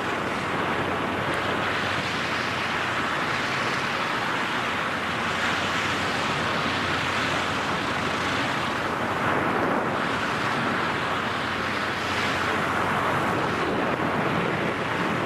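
Steady rush of freefall wind buffeting a skydiver's camera microphone.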